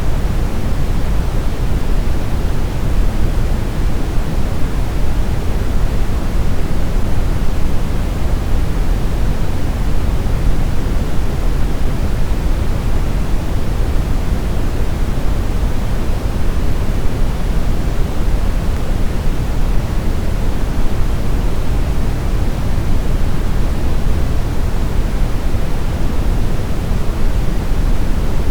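Steady synthetic brown noise: a deep, even rumble of random noise with most of its energy in the low end and little hiss above.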